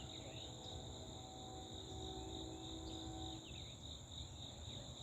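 Insects buzzing steadily at a high pitch. A faint, distant locomotive horn chord is held for about three and a half seconds and then stops.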